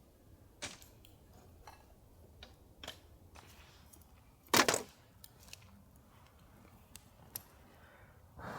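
Sparse, irregular small clicks and light knocks over a quiet background, with one louder clattering click about halfway through.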